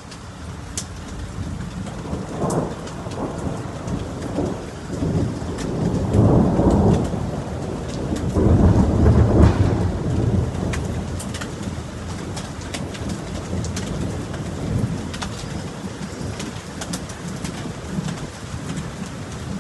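Steady rain falling, with thunder rolling in low rumbles that swell twice, about six seconds in and again around nine seconds, over the hiss of the rain.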